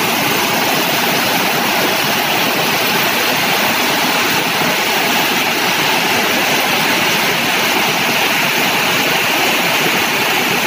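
Heavy rain pouring onto a flooded road, a loud steady hiss of drops splashing into standing water.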